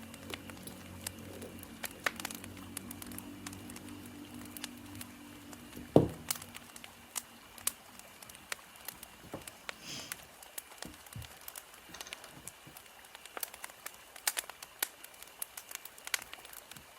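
Wood fire crackling, with irregular sharp pops, the loudest about six seconds in. A low steady hum sounds under it and fades out around the same time.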